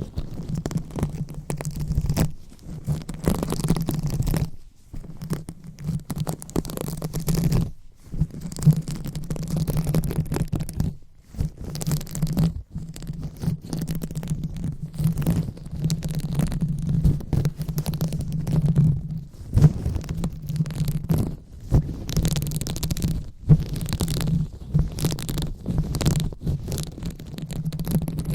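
Fingers rubbing and scratching directly on a microphone in irregular strokes, with short pauses, over a low rumble.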